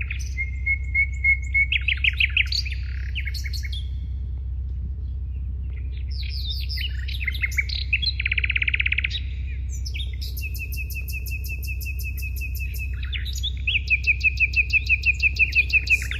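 Birds chirping, in several bursts of rapid high trills, with a longer fast trill near the end, over a steady low hum.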